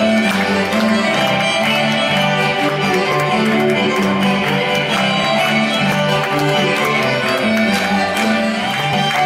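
Greek folk music played live: a violin carries the melody over plucked-string accompaniment and a steady bass pulse.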